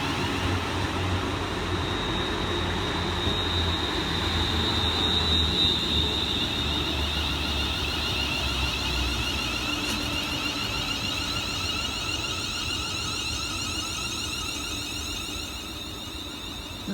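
Two coupled Class 380 Siemens Desiro electric multiple units pulling into the station. A steady high electric whine sits over a low rumble, and both fade slowly away.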